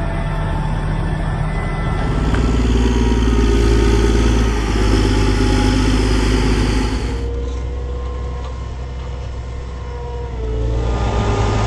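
Challenger MT765D tracked tractor's 8.4-litre six-cylinder turbodiesel engine running, heard across a few back-to-back clips, so the engine sound changes abruptly about two seconds in, around seven seconds in and again near the end.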